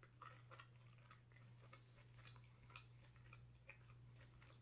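A person chewing a bite of green chili pork taco with the mouth closed: faint, irregular little clicks, over a low steady hum.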